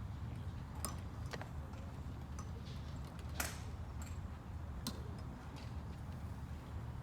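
Golf clubs striking balls at a driving range: a handful of sharp clicks spread over several seconds, the loudest about three and a half seconds in, over a steady low rumble.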